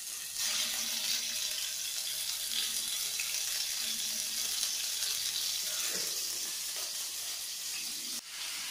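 Chopped chicken sizzling in hot oil in a frying pan, a steady high hiss that grows louder about half a second in.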